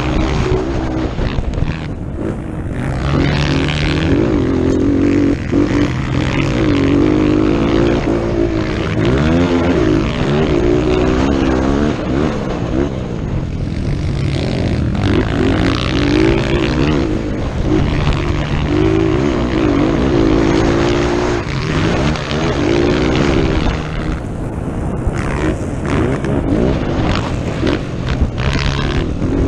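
Dirt bike engine racing hard, its pitch climbing and dropping back again and again as the throttle opens and closes through gear changes, under a steady rushing hiss.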